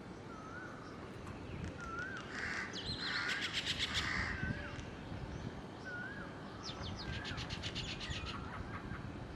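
Several birds calling outdoors: repeated short wavering whistled notes, a few harsh calls, and two rapid rattling chatters, one about three seconds in and one near the end.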